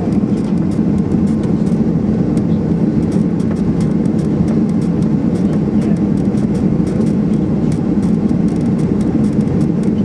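Steady cabin noise inside a Boeing 737-800: a loud, even rumble from its CFM56 turbofan engines and airflow, with faint rattling clicks from the cabin fittings.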